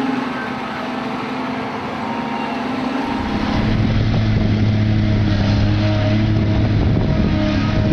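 Heavy machinery engines running steadily. About three seconds in, the sound changes to a louder, deeper steady hum.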